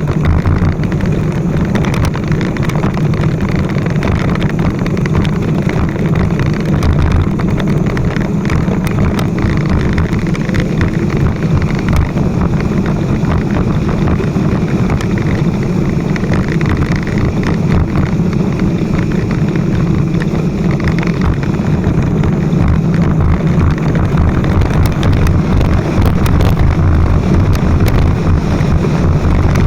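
Motorcycle riding downhill, its engine running steadily under loud wind rushing over the microphone.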